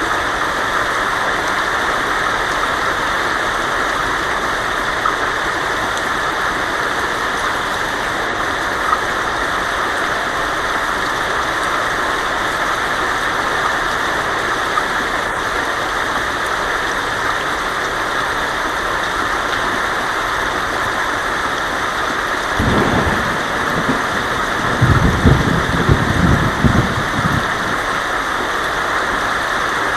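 Heavy rain falling steadily on a tin roof, a constant hiss, with a low rumble of thunder rolling in about three-quarters of the way through and lasting a few seconds.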